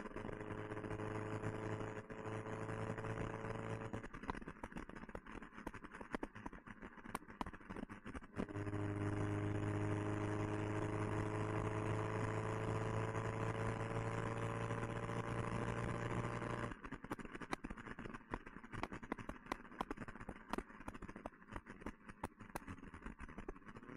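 1969 Alfa Romeo Spider's twin-cam four-cylinder engine, breathing through an Alfaholics exhaust, pulling on the open road with its note slowly rising. It drops away about four seconds in, pulls again from about eight seconds in, and falls off again about two-thirds of the way through as the throttle is lifted, over steady wind and road noise.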